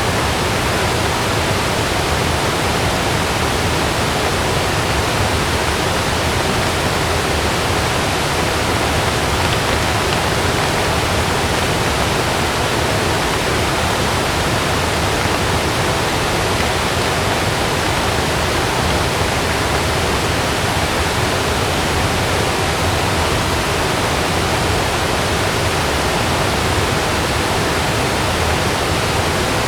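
Heavy rain falling steadily on a tent, a dense, even hiss with no thunder claps.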